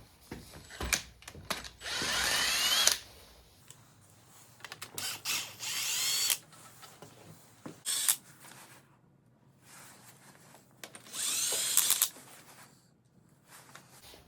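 Cordless power drill/driver spinning out bolts in three short runs of about a second each, each with a rising whine, with small metal clicks and clinks between them as fasteners come off the engine's coolant pipes.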